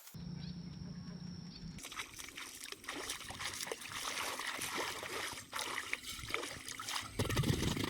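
Water trickling and sloshing, with many small splashes, and a louder, lower sloshing near the end.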